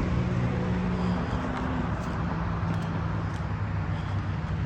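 1990s Honda Prelude's engine running with a steady low hum and even background noise, the pitch dipping slightly about a second in.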